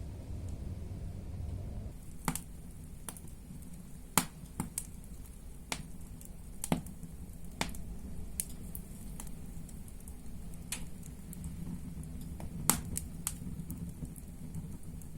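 Firewood burning in a fireplace, crackling: from about two seconds in, irregular sharp pops and snaps, a dozen or so, over a low steady rumble of the fire.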